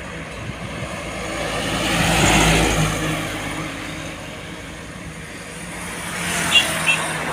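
Road traffic: a truck's engine passes, swelling to its loudest about two and a half seconds in and fading away, then another vehicle approaches near the end with two short high beeps.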